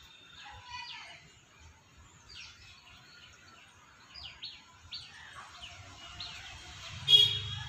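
Small birds chirping outdoors in short, separate notes again and again, with a louder call near the end.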